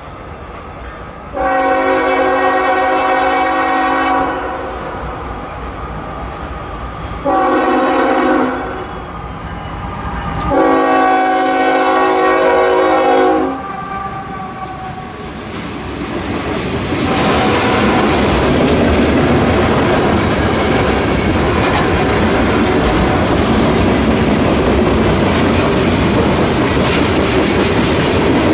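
Locomotive air horn sounding at a grade crossing: a long blast, a short one and another long one, a chord of several pitches. From about sixteen seconds in, the train rolls through the crossing with a steady rumble and clatter of wheels on the rails.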